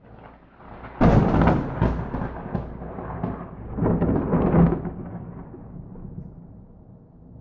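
Thunder from a close lightning strike, without rain: it builds, breaks into a sharp crackling clap about a second in, swells to a second loud peak about four seconds in, then rolls off into a fading rumble.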